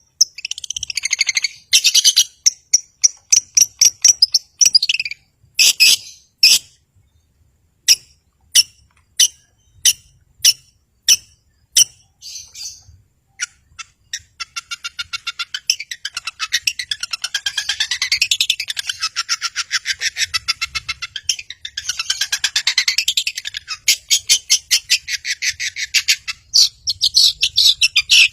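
Long-tailed shrike (cendet) singing: sharp, clipped high notes repeated about once or twice a second, then from about halfway a fast, unbroken chattering run of rapid notes that sweep up and down.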